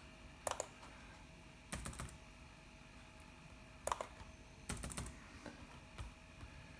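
Typing on a computer keyboard in short scattered bursts of keystrokes, with pauses between.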